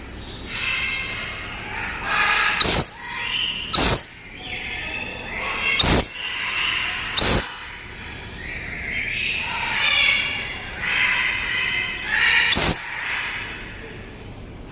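Dusky lories calling: repeated chattering, squawking phrases, broken by about five short, sharp, loud sounds that are the loudest things heard.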